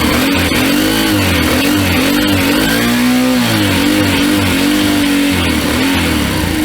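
Honda Little Cub's 49cc single-cylinder four-stroke engine revved in repeated throttle blips, its pitch rising and falling several times, with one longer swing a little after the middle.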